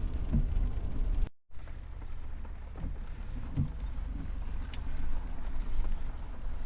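Steady low rumble of a four-wheel-drive vehicle's engine and tyres, heard from inside the cabin while driving on snowy roads. A brief dropout to silence comes about a second and a half in.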